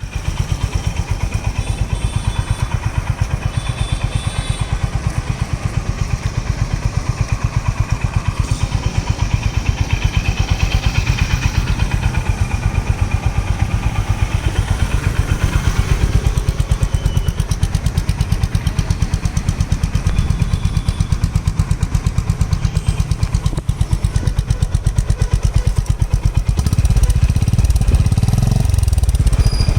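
Honda H'ness CB350's single-cylinder engine and exhaust running steadily, a deep, even, bassy and thumpy beat tuned to resemble a Royal Enfield Bullet.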